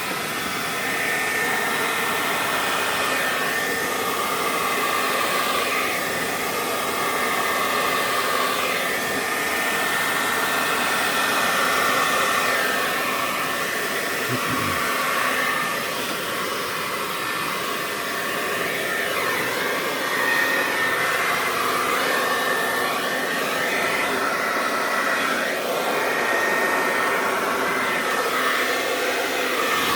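Remington hand-held blow-dryer running continuously, a steady rush of air with a thin whine, rising and falling slightly in level.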